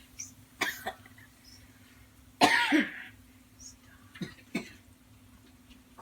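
A person coughing several times, short coughs at first and the loudest about two and a half seconds in.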